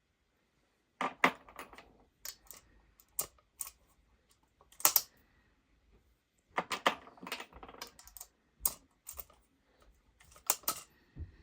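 Rifle cartridge reloading work: sharp clicks and small clattering knocks of brass cases and reloading tools being handled, in irregular clusters with short pauses, and a dull thud near the end.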